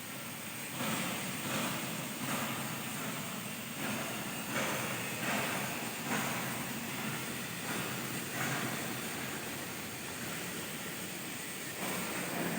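Automatic plate-cutting machine cutting steel plate: a steady hiss that swells in regular surges a little more than once a second.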